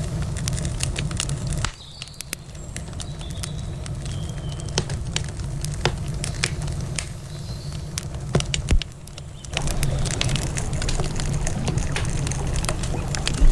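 Wood campfire crackling, with many sharp irregular pops. Beneath it runs a low steady rush of river water, which falls away about two seconds in and comes back near the ten-second mark.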